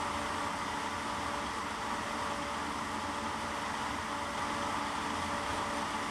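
Steady rush of air with a constant fan hum from a wind tunnel, unchanging throughout.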